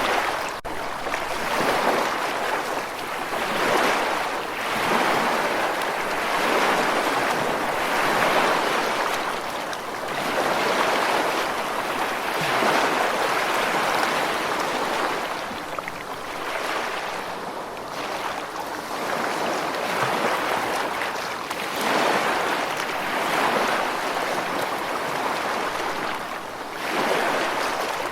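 Ocean surf: a continuous rushing wash of waves that swells and eases about every two seconds.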